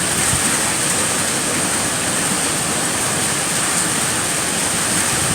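Steady, even rushing of hurricane wind and rain.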